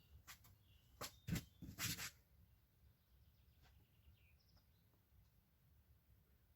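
A few short knocks and rustles in the first two seconds, then near quiet with faint bird chirps.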